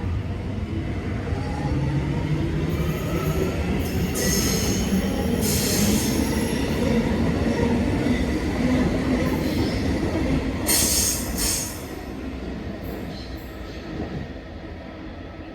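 X'trapolis electric multiple-unit train running through, its motor whine rising in pitch over the first couple of seconds. There are short, high wheel squeals in the middle, and the rumble drops away near the end.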